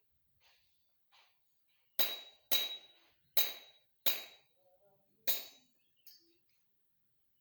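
Five sharp strikes, spaced about half a second to a second apart, each with a faint metallic ring.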